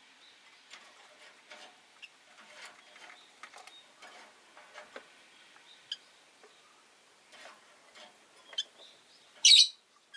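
Rosy-faced lovebirds making soft, scattered chirps and clicks, then one loud, shrill call near the end.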